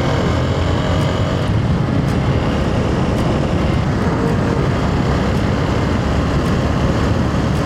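Hero Xpulse 200 4V's single-cylinder engine running steadily while riding, under a steady rush of wind noise on the microphone.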